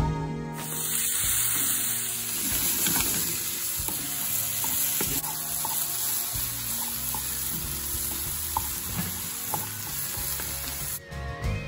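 Diced carrots and onions sizzling in oil in a frying pan, stirred with a wooden spoon. A steady sizzle, with small ticks of the spoon against the pan.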